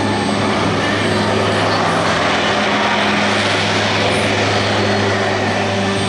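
Lockheed C-130 Hercules turboprop engines and propellers running steadily at close range, a loud continuous propeller drone with a low hum.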